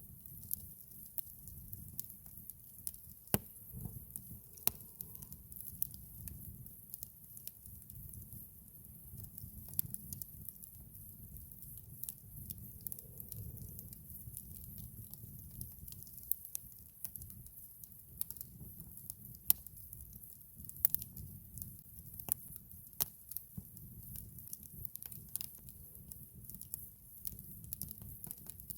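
Campfire wood crackling and popping: irregular sharp snaps, a few of them louder than the rest, over a steady low rumble.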